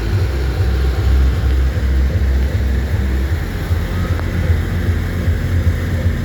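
Tractor diesel engines running, a steady low, throbbing sound.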